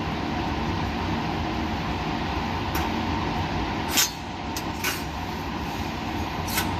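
Steady laboratory machine and ventilation noise with a hum, broken by a few sharp clicks, the loudest about four seconds in, after which the steady noise drops a little.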